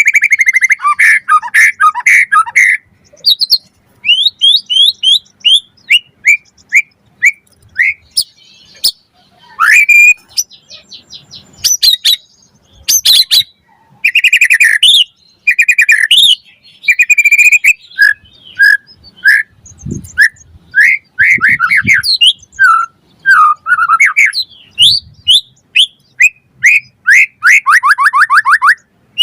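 White-rumped shama (murai batu) singing a long, varied song: series of quick repeated whistled notes, fast trills and a few harsh chattering notes, with short pauses between phrases.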